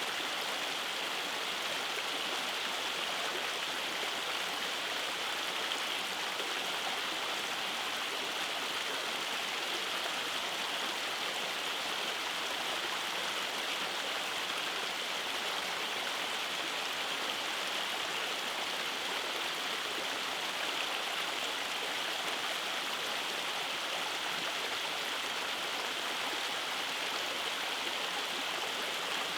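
Rainforest stream rushing over cascades, a steady even rush of water.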